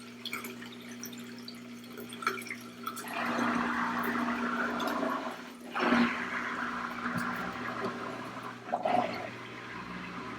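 Water draining out of a Della portable washing machine, rushing like a toilet flush. It swells about three seconds in and surges sharply around six seconds, then eases off, over a steady low hum.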